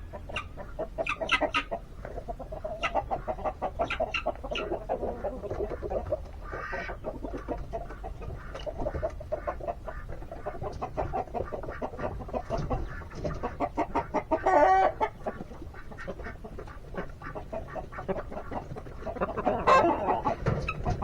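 Chickens clucking, a steady run of short calls, with a louder call about two-thirds of the way in and another near the end.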